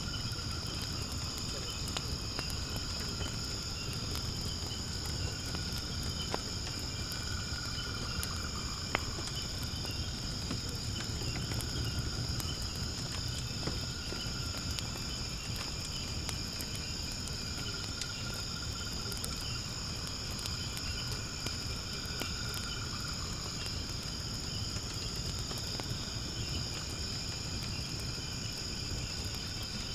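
Steady, high insect chorus over the low rush of a firewood fire burning in a fire pit, with a few sharp crackles and pops of burning wood.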